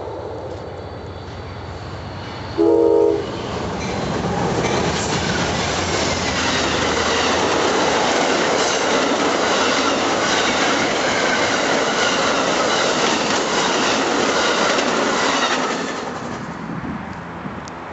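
Amtrak passenger train passing at speed. About three seconds in its horn gives one short, loud blast, then the cars rush by with a steady rumble and wheel clatter on the rails, which fades after about sixteen seconds.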